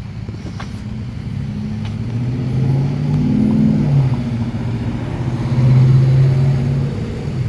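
Car engine running and accelerating close by, swelling louder about three seconds in and again about six seconds in.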